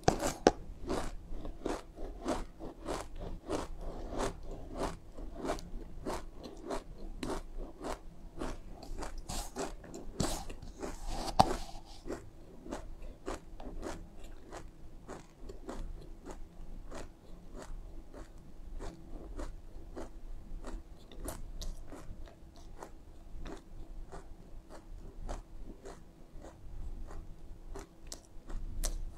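Mouthful of black and white sesame seeds being chewed close to the microphone: a quick run of crisp crunches, about two to three a second, louder through the first dozen seconds and softer after that.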